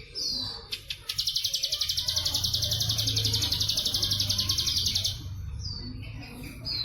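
A bren cililin cicada buzzes in a rapid, even pulsing high trill from about a second in until about five seconds. Short, falling high chirps of a ciblek sawah prinia come just before and after it.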